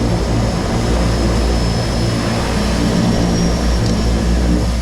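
Seaplane's propeller engine droning steadily in flight: a loud, even low drone with a thin high whine over it.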